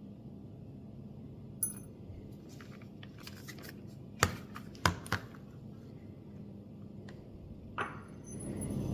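A few small sharp clicks and taps from a precision Phillips screwdriver and tiny screws being worked out of a Nintendo Switch and handled, over a faint steady hum. The loudest are a quick cluster of three about four to five seconds in.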